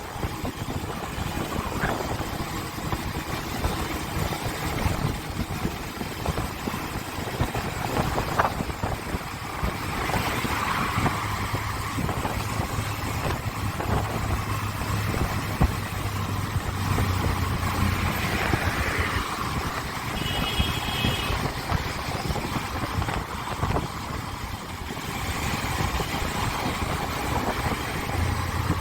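Motorcycle running on the road, with steady engine hum and road and wind noise. A short high beep sounds about twenty seconds in.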